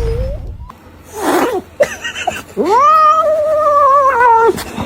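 A cat yowling: one long drawn-out call that rises, holds and drops away, after a shorter noisy sound about a second in.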